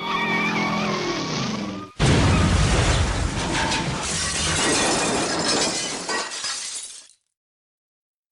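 Car crash sound effect: a screech of tyres for about two seconds, then a sudden loud crash of shattering glass and breaking debris that rattles on for about five seconds before cutting off.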